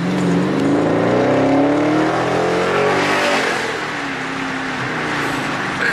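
Car engine accelerating: its note rises steadily for about three seconds, then eases off and settles.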